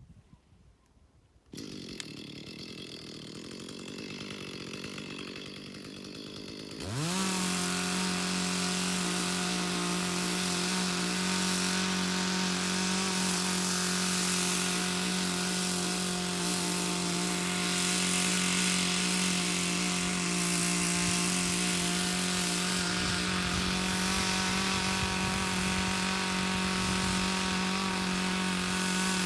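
Chainsaw cutting green wood: it comes in low about a second and a half in, then revs sharply up to full throttle about seven seconds in and runs at a steady high pitch through the cut.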